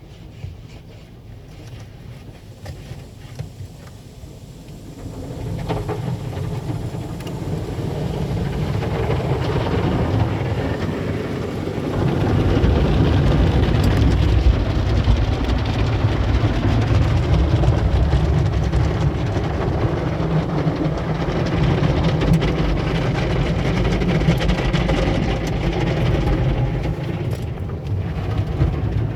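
Automatic tunnel car wash working on the car, heard from inside the cabin: a steady rush of water spray and wash equipment over a low rumble. It starts about five seconds in and grows louder about twelve seconds in.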